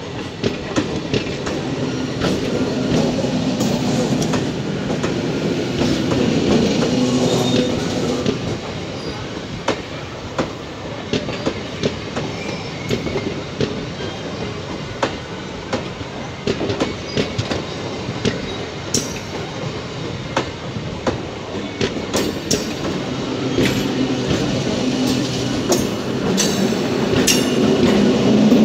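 Electric MEMU passenger train rolling past at low speed, its wheels clicking over rail joints. A droning hum swells twice, the second time near the end as the driving motor coach goes by.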